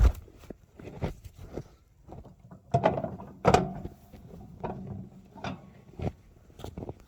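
Irregular clunks, knocks and scrapes of the derailed track-mounted snowplow being handled back onto the rails, with a sharp knock at the start and two louder clunks near the middle.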